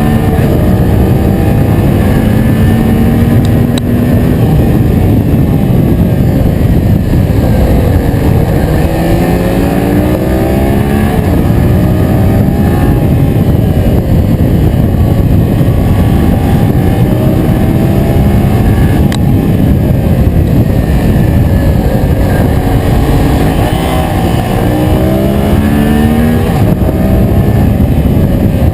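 Yamaha MT-07's 689 cc parallel-twin engine running under way, its revs rising and falling several times as the rider accelerates and eases off, under a heavy low wind rumble on the camera.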